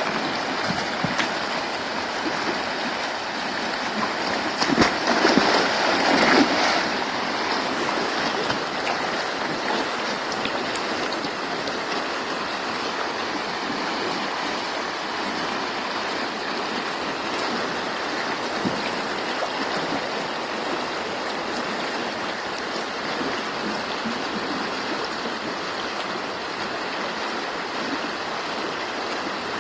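River water rushing steadily, with a louder stretch of splashing about five seconds in.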